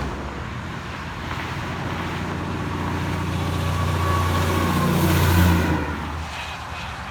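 A road vehicle passing by, its low engine drone building to a peak about five seconds in and then fading quickly, with traffic noise around it.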